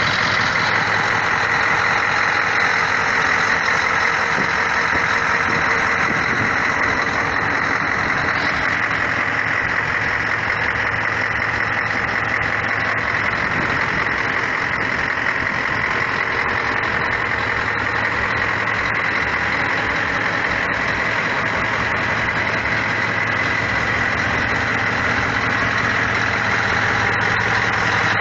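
Scania R480 V8 diesel truck engine idling steadily.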